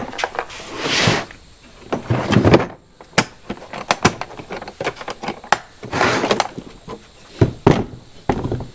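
Rummaging through hardware: scattered clicks, knocks and rattles of small metal parts being handled and moved about, with a few longer scraping, rustling bursts.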